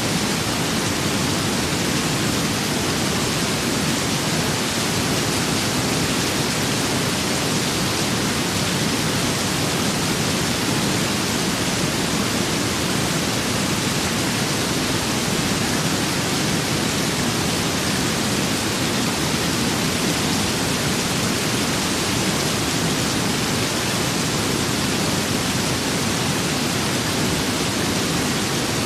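Steady rain with wind, an even unbroken hiss with no separate drops, gusts or thunder standing out.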